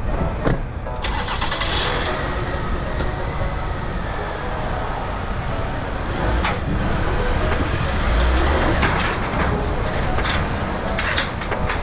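A motor vehicle's engine running, with a steady rumble and scattered clicks and knocks.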